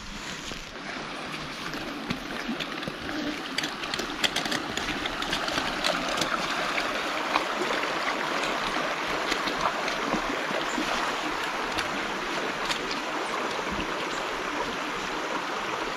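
Steady rain falling, with many small drop ticks through the hiss, growing a little louder over the first few seconds.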